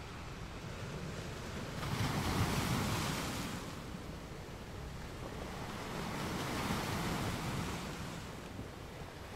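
Road and wind noise of a car driving at about 30 mph, heard from a dashcam inside the cabin: a steady rush of tyres on asphalt that swells louder twice, about two seconds in and again around six seconds.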